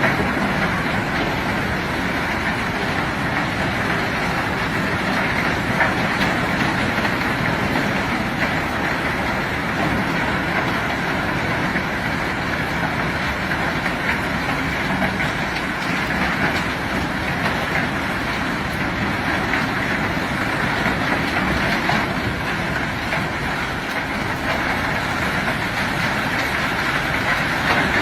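Heavy machinery unloading rock, a steady mechanical din that runs without a break.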